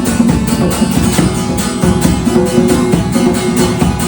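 Strummed acoustic guitar playing an instrumental passage of a worship song, with a steady strumming rhythm.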